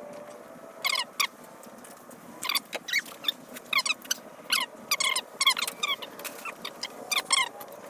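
Birds chirping: many short, quick squeaky calls with fast pitch sweeps, irregularly spaced.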